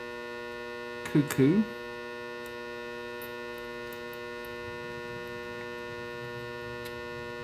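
Steady electrical mains hum, a stack of unchanging tones, with a few faint small clicks from clock parts being handled.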